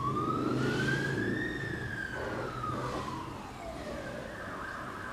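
Emergency vehicle siren wailing, its pitch climbing to a peak about a second and a half in and then sliding slowly back down, over a low rumble of road traffic.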